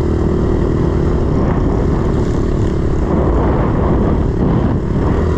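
A 110cc pit bike's single-cylinder four-stroke engine running under load while being ridden, its pitch wavering up and down with the throttle.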